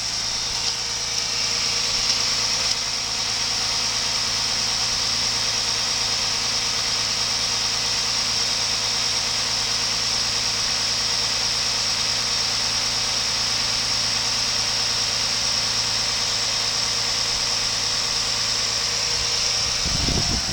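2006 Chrysler 300 engine idling steadily, with a steady high-pitched whine over the running; the tester judges that it sounds good.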